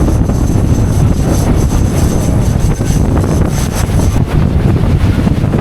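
Wind buffeting the microphone over the steady noise of a motorboat underway, with a thin high whine that stops about four seconds in.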